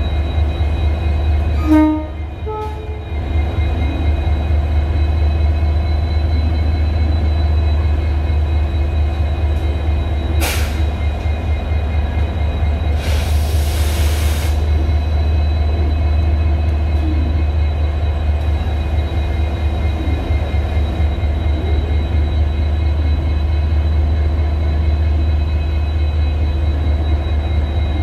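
EMD WDP4D diesel locomotives idling with a steady low hum from their two-stroke EMD 710 engines, with steady higher-pitched tones over it. There is a short pitched sound about two seconds in and a brief burst of hiss around the middle.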